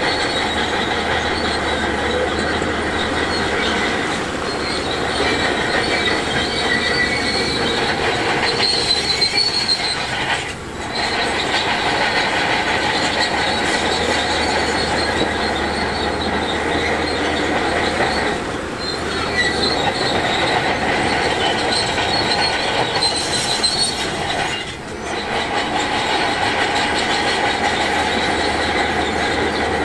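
Crawler bulldozer working, its steel tracks squealing and clattering over the engine's running noise. The sound is loud and continuous, easing off briefly three times.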